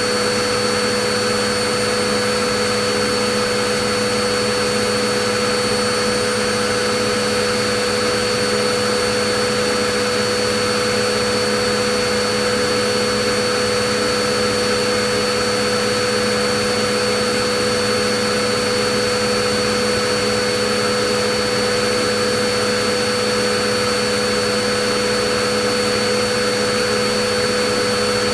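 Vacuum cleaner running continuously at a steady pitch: an even rush of air with a constant motor whine and no change in speed.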